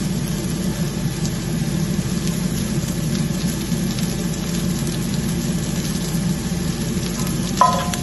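Garlic, shallot and chili frying in hot oil in a pan: a steady sizzle over a low hum. Near the end there is a short ringing clink.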